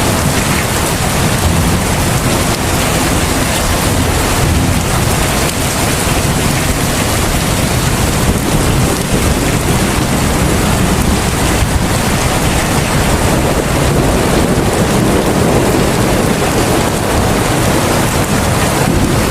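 Heavy rain falling steadily: a dense, even hiss with a strong low rumble underneath and no distinct drops or breaks.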